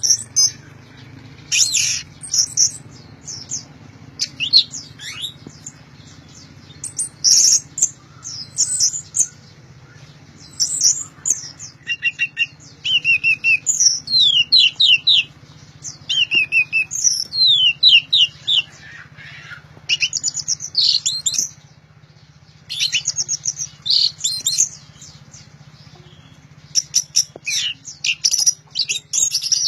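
Orange-headed thrush singing loudly in repeated bursts of fast, varied phrases: quick trills and runs of descending slurred whistles, with short pauses between bursts. A faint steady low hum lies underneath.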